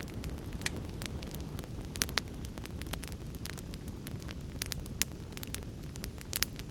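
Wood fire crackling in a fireplace: a steady low rumble of burning with frequent sharp pops and snaps, the loudest about two seconds in and again near the end.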